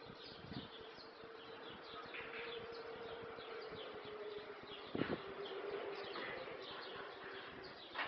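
Small birds chirping over and over in short, falling chirps, with a steady low buzz underneath and a single knock about five seconds in.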